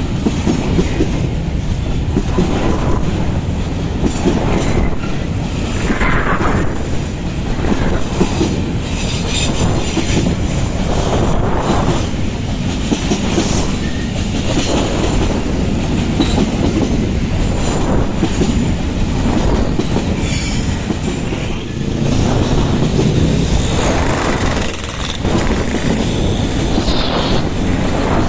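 Coal train wagons rolling past: a steady heavy rumble with the repeated clatter of wheels over rail joints, and brief squeals of wheels against the rail now and then.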